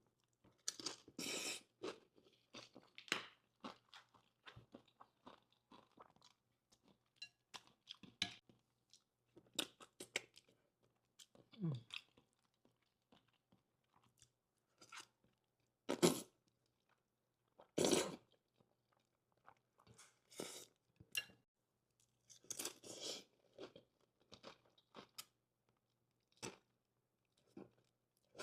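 Close-miked eating: irregular crunching bites and chewing, with a few louder crunches about halfway through.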